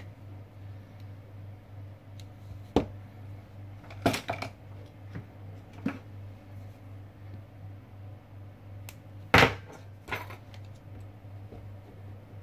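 Small tools or phone parts clicking and knocking on a work surface, about five sharp knocks spread out, the loudest about two-thirds of the way in, over a steady low hum.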